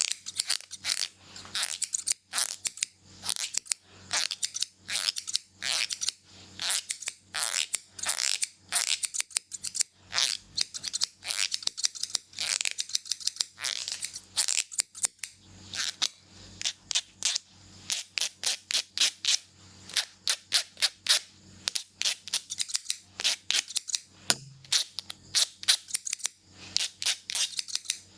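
Scissors snipping rapidly through hair, close to the microphone, in quick runs of several short sharp cuts a second.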